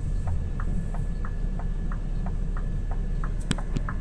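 Scania R620 truck's V8 diesel engine rumbling low and steady in the cab, with a turn-signal indicator ticking evenly about three times a second. A few sharper clicks come near the end.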